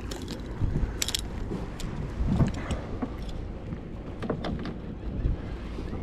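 Wind buffeting the microphone as a steady low rumble, with a few scattered light clicks and rattles, a sharp one about a second in.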